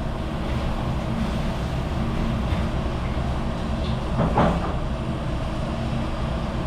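Steady mechanical hum of dish-room machinery, with a single clatter about four seconds in.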